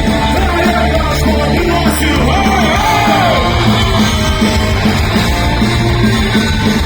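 Live punk rock cover band playing loud distorted guitars, bass and drums, with a shouted, sung vocal line.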